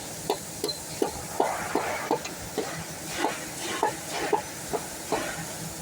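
A string of light, sharp knocks, roughly two a second and unevenly spaced. These are cut pieces being knocked against a hard, flat surface to square up their ends before they are taped into a bundle.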